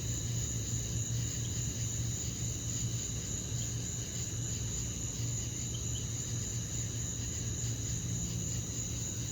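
Crickets chirping in a continuous high-pitched trill, over a steady low hum.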